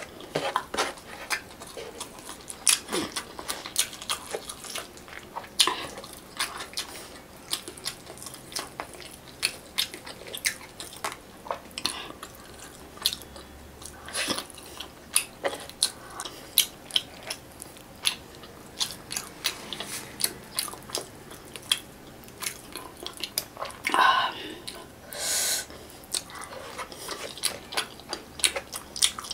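Close-miked eating by hand: chewing, lip smacks and crunches of fried fish, a steady run of quick wet mouth clicks, with a longer noisy stretch about three-quarters of the way through.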